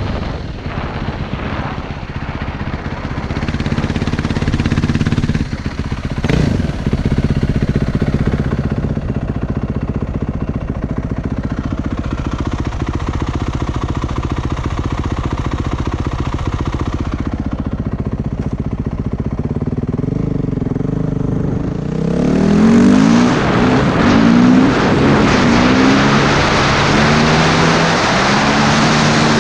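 Motorcycle engine running while riding, with wind rushing over the microphone. About 22 seconds in the wind gets louder and the engine revs rise and fall several times as the bike accelerates.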